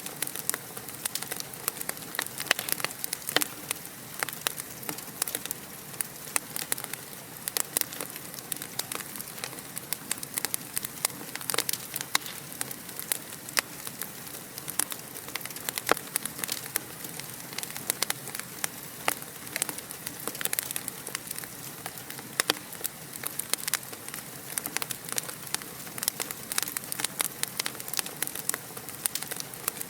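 Fireplace fire crackling: a dense, steady stream of small pops and snaps over a soft hiss.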